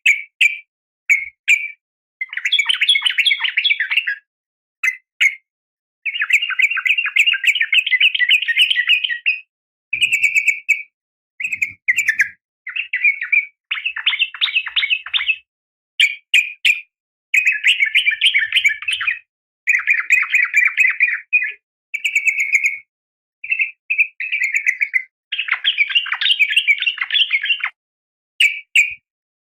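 Yellow-vented bulbul (trucukan) calling, billed as a female calling to the male. Short bubbly notes alternate with longer rapid chattering phrases of one to three seconds, with dead-silent gaps between them.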